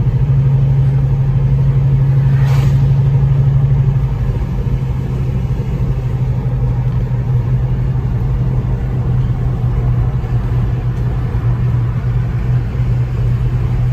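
Vehicle engine and road noise heard from inside the cabin while driving: a steady low drone, a little louder for the first four seconds, then easing slightly.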